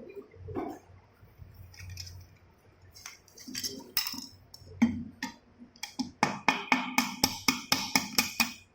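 Metal parts of a motorcycle gearbox being knocked into place in the crankcase: a few scattered clinks, then from about six seconds in a quick, even run of ringing metallic taps, about six a second.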